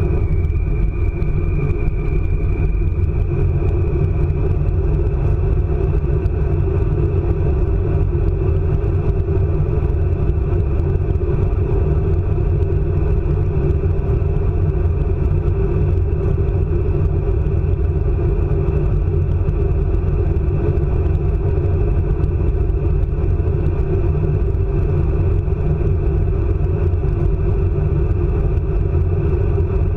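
ICE high-speed train running at speed, heard from on board: a steady, loud rumble of wheels and track, with a faint high whine that fades away over the first few seconds.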